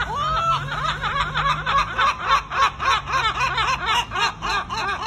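Two gulls giving their long call: a rising opening note, then a fast run of short, repeated laughing calls, about six a second.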